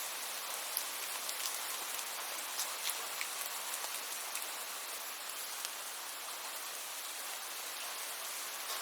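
Steady rain falling in an even hiss, with many separate raindrop ticks scattered through it.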